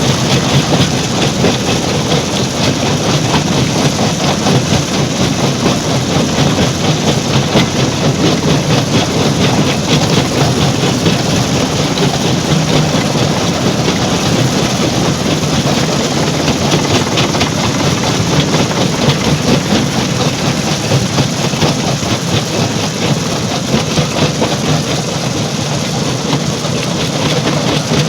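Stone crusher plant running: a loud, steady clatter of machinery and rock being crushed, with a rapid rattle that never lets up.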